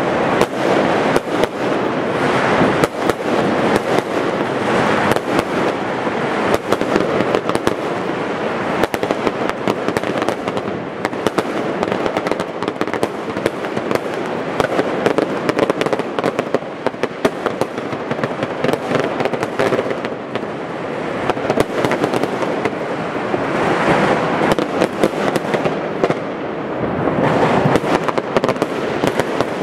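Dense, continuous barrage of New Year's fireworks: firecrackers and bangers cracking and banging many times a second, over a steady wash of crackle and rumble, with no pause.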